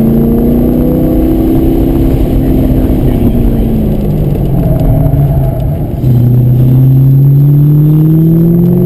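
2003 Corvette Z06's 5.7-litre LS6 V8 on track, heard from inside the cabin. The engine pulls up in pitch, falls off as the driver lifts for a corner, then comes back on the throttle hard about six seconds in and climbs steadily in revs.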